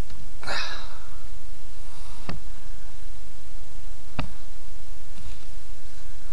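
A short breathy exhale, then two sharp single ticks about two seconds apart, over a steady low hum.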